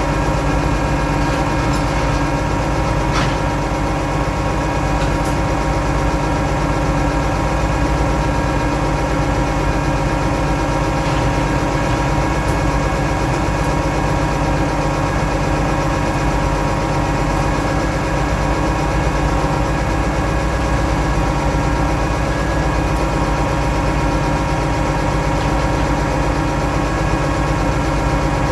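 Oliver 1650 tractor engine running at a steady speed.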